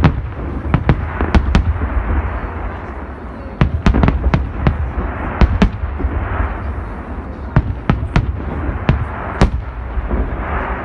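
Aerial fireworks display: a rapid, irregular series of loud shell bursts, with crackling and hissing from the effects and a low rumble between the bangs.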